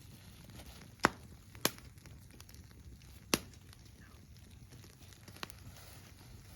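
Campfire crackling: three sharp pops about a second in, just after, and near the middle, the first the loudest, with a smaller pop later.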